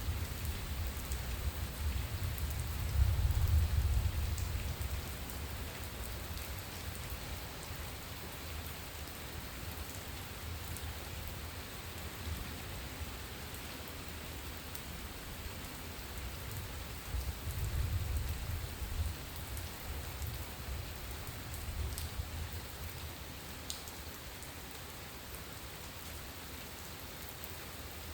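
Steady heavy rain falling during a thunderstorm, with low rumbles of distant thunder about three seconds in and again a little past the middle.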